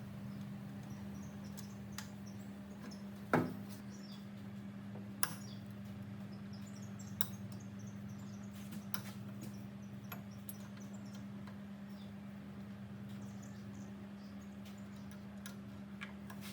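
A steady low hum under scattered light clicks and taps, typical of hand work on parts in a workshop. The sharpest knocks come about three seconds in and again about five seconds in.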